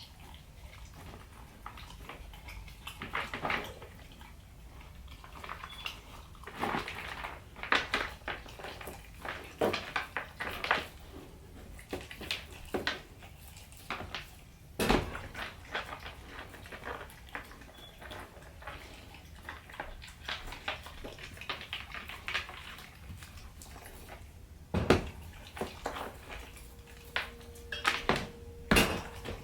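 A pit bull puppy eating from a food bowl: irregular clinks and knocks of the bowl being nudged about, with chewing between them and a few sharper knocks about halfway and near the end.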